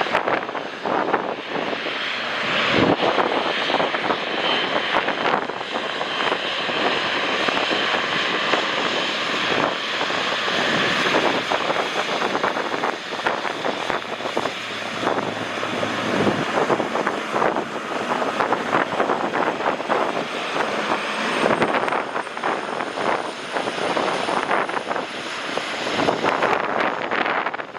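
Jet airliner engines running as the plane lands, a steady loud rush of noise. Gusty wind buffets the microphone throughout. A faint high whine rises slowly over the last few seconds.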